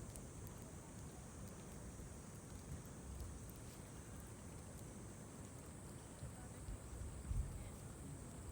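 Wood fire burning in a small fire stand, with faint scattered crackles over a low, uneven rumble.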